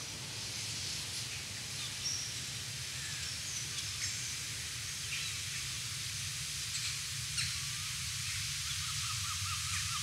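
Outdoor ambience of small birds calling: scattered short high chirps over a steady low rumble, with a fast warbling trill near the end.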